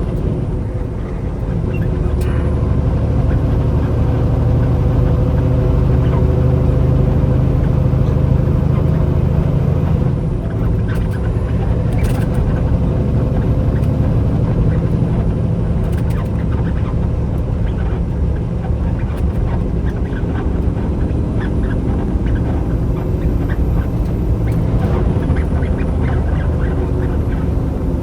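Truck engine running steadily with road noise while driving, a low drone that eases somewhat about a third of the way in.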